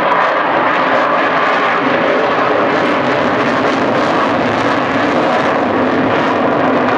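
Avro Vulcan's four Rolls-Royce Olympus turbojets, a loud, steady jet roar as the delta-wing bomber flies its display.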